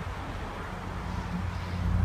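Low, steady rumble of a vehicle engine, swelling slightly in the second half.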